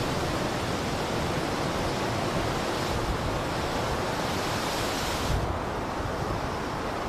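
Blizzard wind blowing in a steady rushing noise with a low rumble. About five seconds in the high hiss drops away suddenly, leaving a duller rush.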